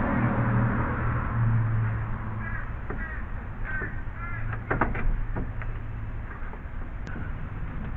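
A crow cawing four or five times in short, arched calls, over a low steady hum that fades out about six seconds in, with a couple of sharp knocks.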